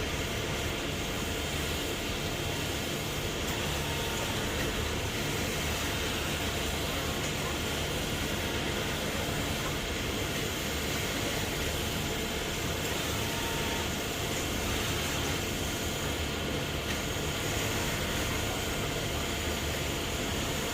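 Laser cutting machine running steadily while it cuts ribbon: a continuous, even mechanical hum and hiss.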